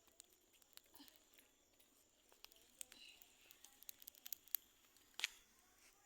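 Near silence broken by faint scattered clicks and crackles, with one sharper snap about five seconds in.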